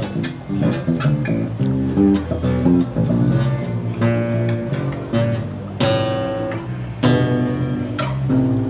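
Grinder Spider acoustic bass guitar played solo: a quick run of plucked notes with a few fuller strummed chords ringing out in the second half.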